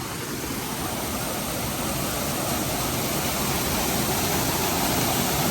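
Waterfall rushing, a steady wash of falling water that grows slightly louder over the seconds.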